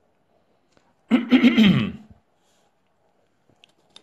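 A man's short, loud vocal sound without words, about a second in, falling in pitch over about a second.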